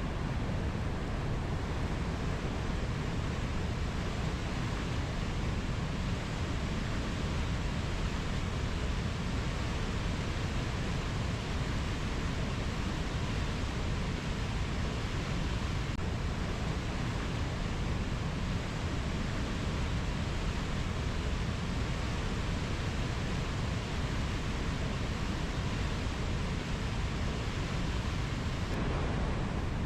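Steady rushing rainforest ambience, an even noise that holds constant throughout, heaviest in the low end, with no birds or insects standing out.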